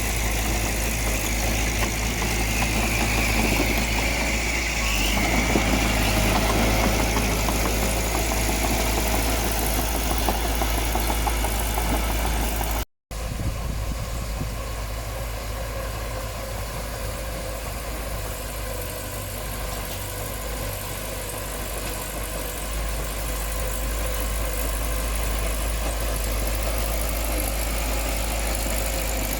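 Diesel engine of heavy earth-moving machinery running steadily at low revs. The sound cuts out for an instant about 13 seconds in, then the engine carries on.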